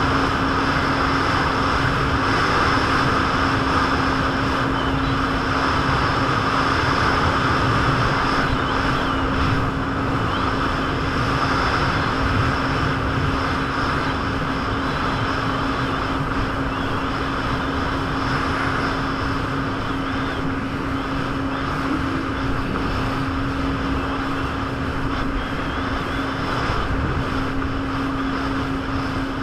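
Jet ski engine running at a steady cruising speed, its drone holding one even pitch, over the rush of water spray and wind.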